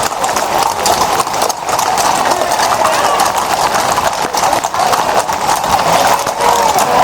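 Hooves of many horses clip-clopping on the stone-paved street as a mounted procession rides past, with strikes overlapping continuously.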